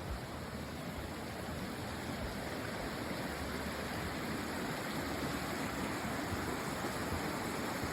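Rushing river water tumbling over rocks, a steady hiss that grows slightly louder.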